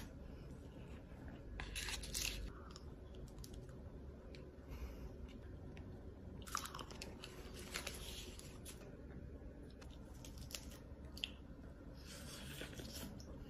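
A person eating: biting and chewing cake, a chocolate truffle and a piece of cooked meat in turn, with wet mouth clicks and several louder crunchy bites spread through.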